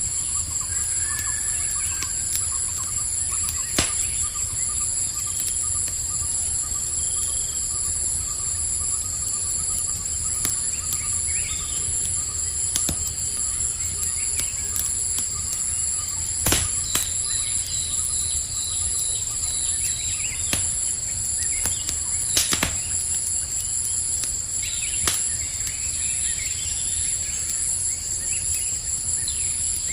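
Campfire crackling, with a few sharp pops, over the steady high chirring of night insects.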